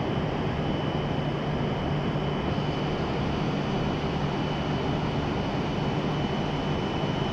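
Steady hum and rumble of a W7 series Shinkansen train standing at the platform, with a constant high-pitched tone above it.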